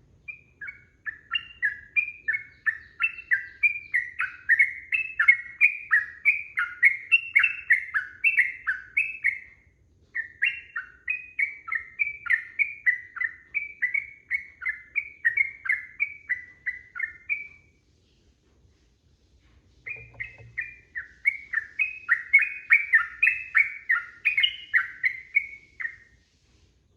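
Yellow-vented bulbul (trucukan) singing long runs of quick, repeated chattering notes, three runs with short pauses between.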